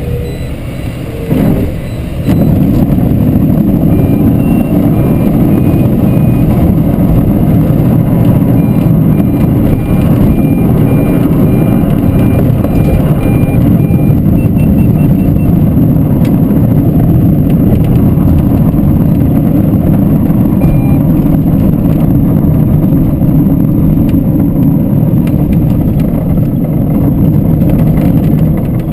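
Light aircraft's engine and propeller running steadily, heard from inside the cockpit as a loud, dense drone. The drone gets louder about two seconds in, then holds.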